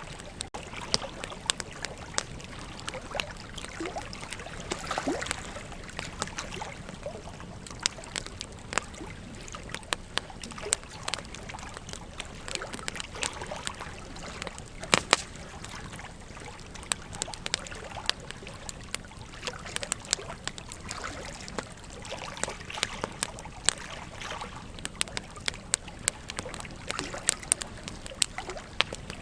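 Wood fire crackling, with irregular sharp pops and snaps, the loudest about halfway through, over the steady rush of a flowing river.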